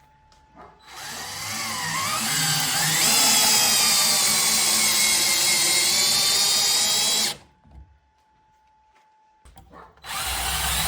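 Parkside 20 V cordless 3-in-1 impact driver's motor spinning up with a rising whine, running at a steady high speed for about four seconds, then stopping abruptly. A few faint clicks follow, and the motor starts up again near the end.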